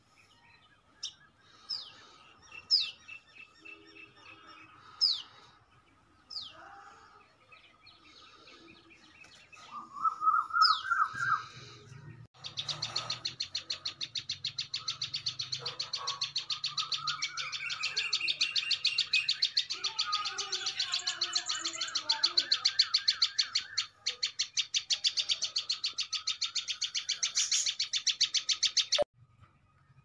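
Tailorbirds chirping: a few sharp falling chirps at first, then a loud rising run of notes about ten seconds in. From about twelve seconds on comes a fast, steady string of repeated chirps, which stops suddenly near the end.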